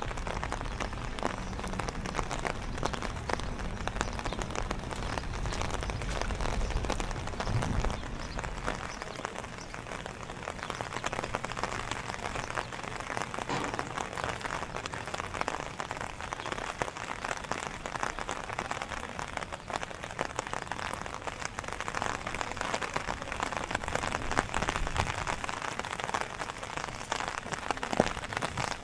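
Steady rain falling, with many small drop taps throughout; a low rumble underneath dies away about eight seconds in.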